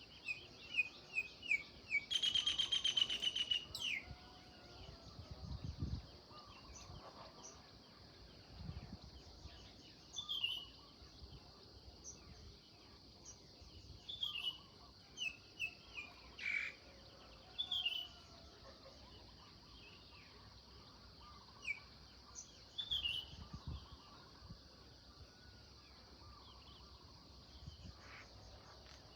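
Songbirds chirping in short, scattered calls, with one loud, rapid trill about two seconds in, over a steady high hiss.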